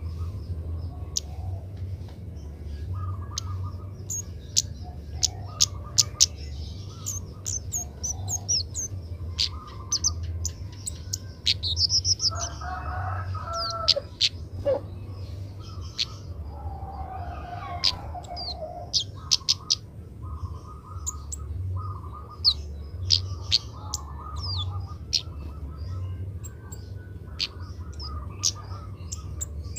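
Kemade birds calling: many short, sharp high chirps throughout, with a couple of longer, lower warbling phrases in the middle, over a steady low hum.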